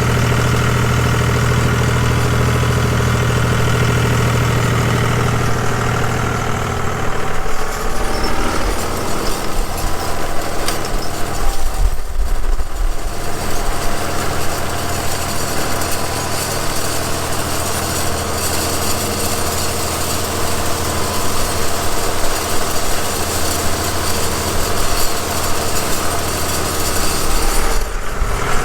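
John Deere 5210 tractor's diesel engine running, heard up close from the open operator's seat. It holds a steady note for about seven seconds, then the note changes and turns rougher and more uneven as the tractor works.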